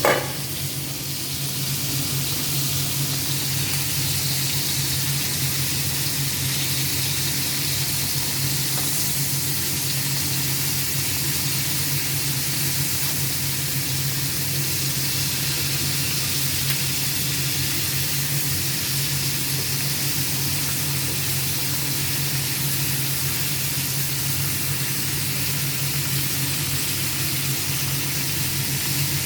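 Chicken adobo sizzling and simmering in a pan, a steady hiss over a low hum. A single sharp clink from the pan lid comes right at the start.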